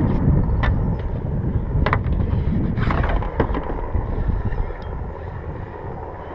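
Wind rumbling on the microphone, with a few short knocks about half a second, two seconds, three seconds and three and a half seconds in; it eases off toward the end.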